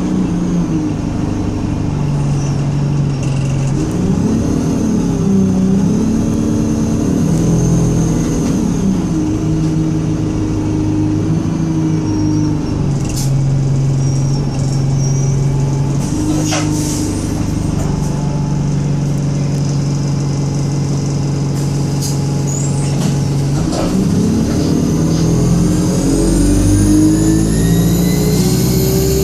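Alexander Dennis Enviro 200 single-deck bus engine revving hard. Its note climbs and drops several times as it changes through the gears, holds steady for a long stretch, then climbs again near the end under a rising high-pitched whine.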